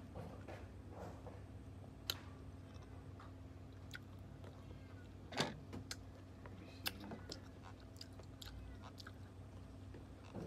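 A person chewing and biting crisp raw cucumber close to the microphone, with sharp crunches scattered every second or two, the loudest about five and a half seconds in.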